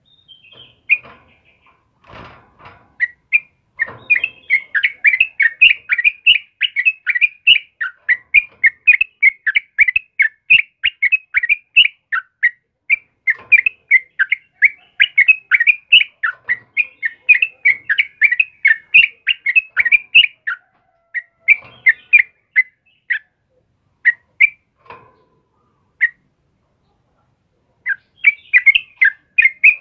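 Yellow-vented bulbul (trucukan) singing a fast run of short, chattering notes, several a second. The song thins out after about twenty seconds, stops briefly, and starts again near the end.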